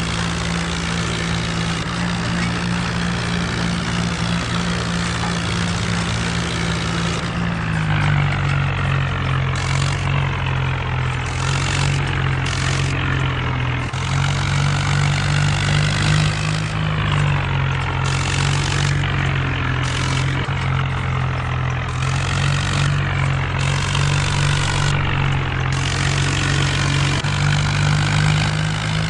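Mahindra Arjun tractor's diesel engine running steadily, its engine speed dipping and picking up again a few times.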